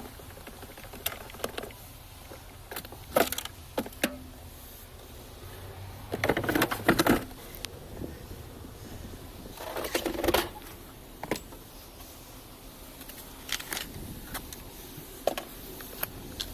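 Hand tools and parts being handled during work on the battery: scattered clicks and metallic clinks, with two short bursts of clattering about six seconds in and again about ten seconds in.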